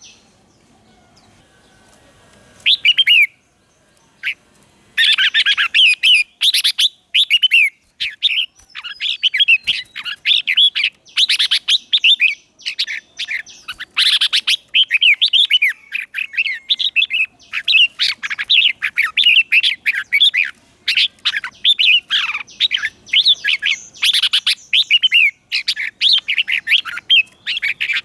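Red-whiskered bulbul singing: after a short pause and a brief phrase, a fast, unbroken run of bright, warbling chirps sets in about five seconds in. It is the lure bird's song meant to draw wild bulbuls in.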